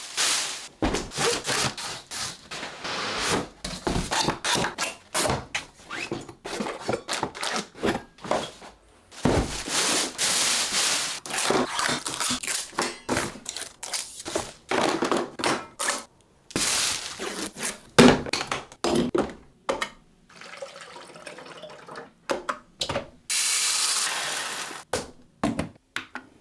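A cardboard box and its packing being handled and opened: irregular rustling and scraping with many knocks and thunks, the loudest thump about 18 seconds in.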